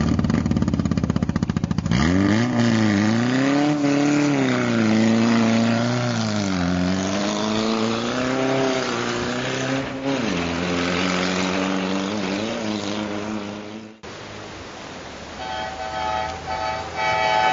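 Toyota Corolla KE55's four-cylinder engine revving up and down under hard driving, its pitch rising and falling in several swells, with abrupt breaks between takes. Near the end it cuts off suddenly and gives way to a set of steady tones.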